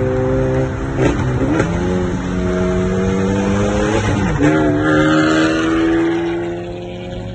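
Hyundai Genesis Coupe's 2.0-litre turbocharged four-cylinder engine pulling through the gears. The pitch climbs steadily, breaks and drops at a gear change about a second in and again about four seconds in, then climbs again. The sound fades somewhat near the end.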